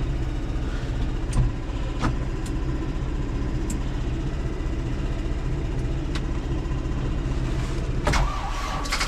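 Diesel engine of a Deutz tractor being cranked over by its starter motor, turning steadily without catching. It is a cold start with the block heater left unplugged, on a battery that turns out to be too low to start it.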